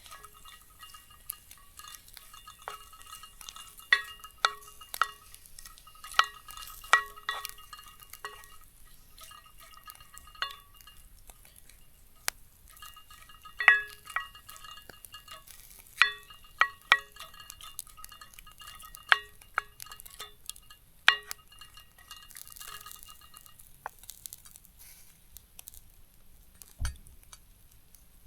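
A utensil clinking again and again against a ringing dish while stirring or mixing, in irregular groups of strikes, each leaving a short clear ring. A single dull thump near the end.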